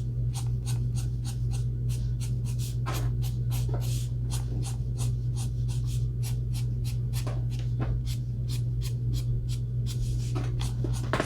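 Ohuhu alcohol marker nib scratching across paper in quick short strokes, about four a second, with a brief let-up near the end. A steady low hum runs underneath.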